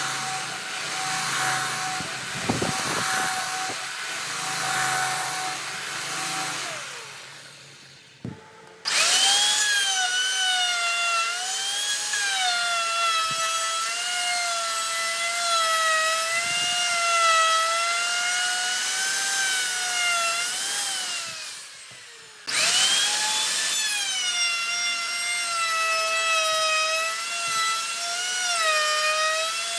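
Handheld electric power tool working wood: its motor whines and its pitch dips and wavers as it bites into the wood. It winds down about seven seconds in, starts up again sharply near nine seconds, winds down once more around twenty-one seconds and starts again a second or so later.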